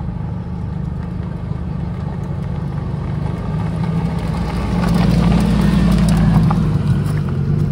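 A car engine running with a low rumble that swells louder about five seconds in, then eases off.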